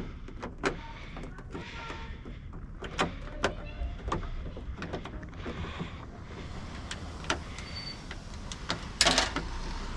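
Hand work inside a car door: scattered light clicks and knocks of tools and parts against the door panel and frame, with a louder scraping rattle about nine seconds in.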